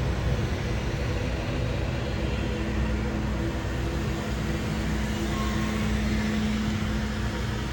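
Twin-turbofan airliner engines at takeoff power: a steady jet rumble with a low hum that grows stronger about four seconds in.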